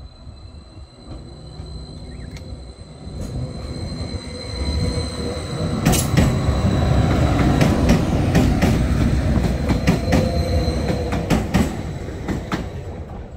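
Greater Anglia Class 755 bi-mode train passing over the crossing as it pulls away from the station. It grows loud about four seconds in, with a quick series of sharp clicks from the wheels over the rail joints, then fades near the end. The level crossing's alarm sounds as a steady high tone until about two seconds before the end.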